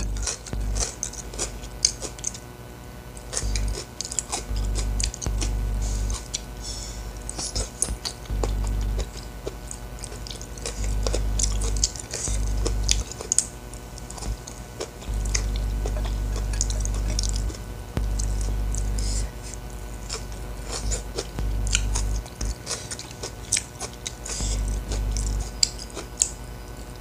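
Close-miked chewing and wet mouth smacking, with many small crisp clicks, as a mouthful of rice with sambal and fried sausage is eaten. A deep low hum switches on and off repeatedly in blocks of a second or two.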